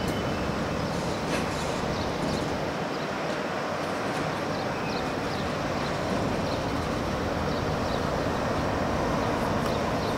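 Steady rumble and hiss of a train running on the track, with no clear change in level.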